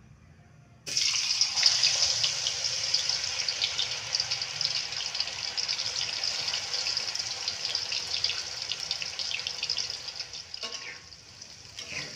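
Raw tofu cubes going into hot cooking oil in a wok: a sudden loud sizzle with fine crackling about a second in. The sizzle carries on steadily as the tofu deep-fries, easing somewhat near the end.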